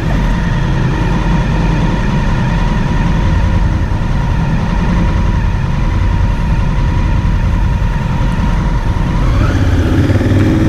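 Motorcycle engine running at a steady speed while riding, with wind rush.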